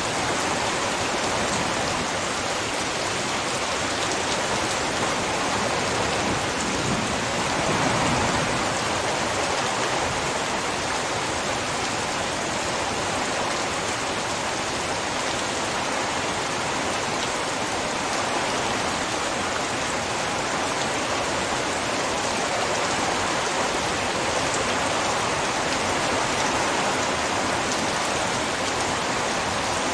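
Torrential rain falling steadily, a dense even hiss of drops that swells slightly about eight seconds in.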